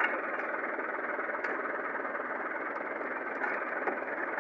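Millat tractor's diesel engine running steadily, with a few faint clicks over it.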